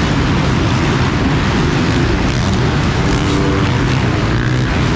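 Motocross bikes' engines running at race speed: a loud, steady engine din, with one engine note standing out for a moment about three seconds in.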